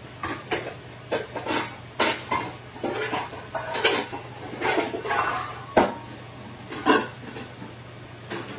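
Kitchen utensil clinking and scraping against a dish as zucchini noodles are moved into another dish: a run of irregular knocks and scrapes that stops about seven seconds in.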